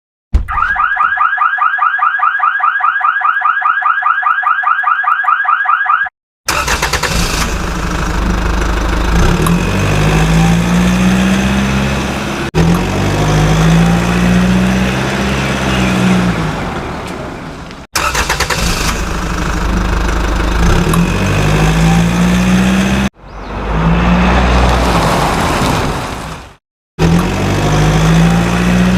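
Electronic sound effects from battery-operated toy vehicles: a fast warbling siren-like tone for about six seconds, then an engine-like rumble with a low tone that rises and falls again and again, cut off abruptly several times.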